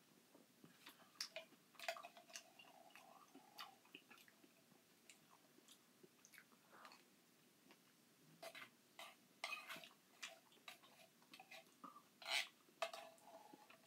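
Quiet chewing of crushed pineapple, with scattered clicks and scrapes of a metal spoon against an opened tin can; the loudest comes about twelve seconds in.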